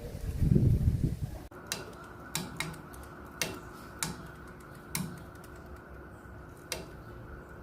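A low rumble for about a second and a half, then sharp, irregular taps, about eight in six seconds, over a faint steady hum.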